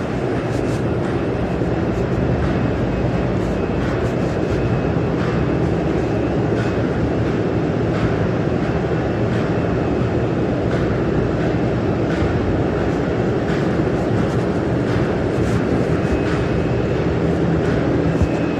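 Steady mechanical rumble with a low hum and a few faint clicks, unbroken throughout.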